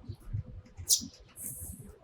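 Eurasian tree sparrows chirping: one sharp, high chirp about a second in, followed by a short buzzy chatter.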